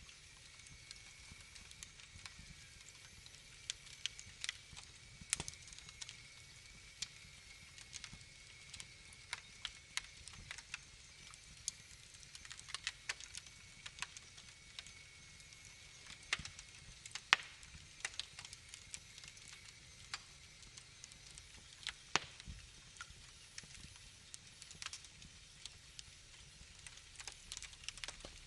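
Wood fire in a fireplace crackling, with irregular sharp pops and snaps over a faint low hiss.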